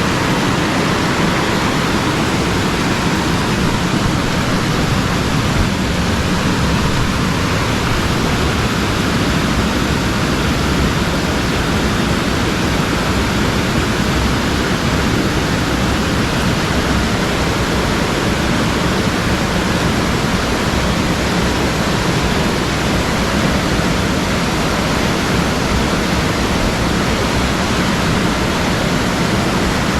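Steady loud rush of water from a fast-flowing mountain stream.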